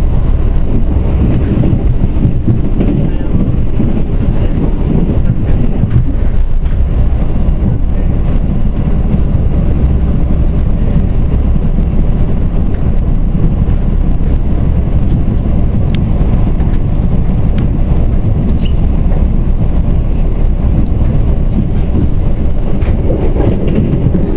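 Korail Mugunghwa-ho passenger train running along the line, heard from on board as a steady low rumble of wheels on rails, with a few faint clicks.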